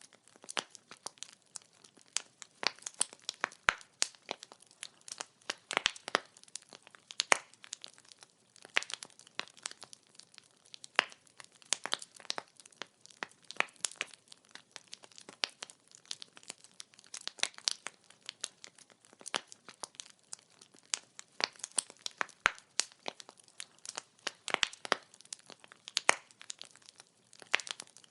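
Wood fire burning, the logs crackling and popping in quick irregular snaps over a soft hiss.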